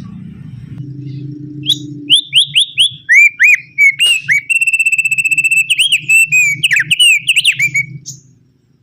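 Opior (Javan grey-throated white-eye) singing: a run of quick, slurred whistled notes sliding up and down, with a rapid trill held on one pitch about halfway through. The song stops shortly before the end. A low hum lies under the first two seconds.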